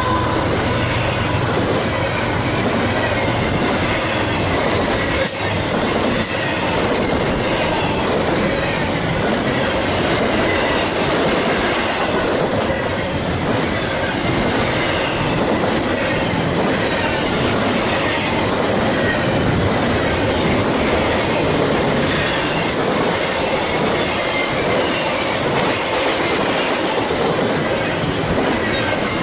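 Double-stack intermodal freight cars rolling past: a steady, loud rumble and rattle of wheels on rail, with a faint, wavering wheel squeal running through it.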